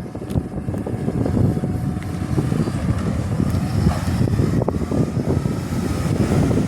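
Garbage truck running close by: a steady low engine rumble with rattles and knocks, and a faint whine that bends in pitch in the middle.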